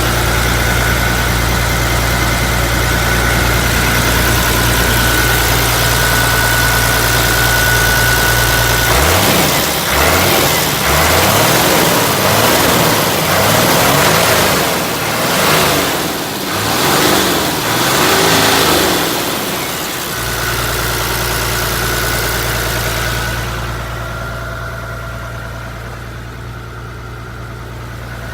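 Hino Ranger truck's diesel engine idling steadily, then revved up and down several times for about ten seconds before dropping back to idle.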